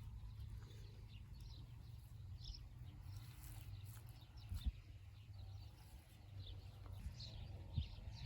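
Faint birdsong, short high chirps and trills scattered throughout, over a steady low rumble, with a couple of soft knocks.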